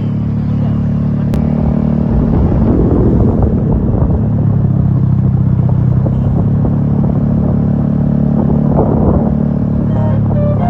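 Road vehicle engine running, a steady low rumbling hum that shifts in pitch a few times, with road noise.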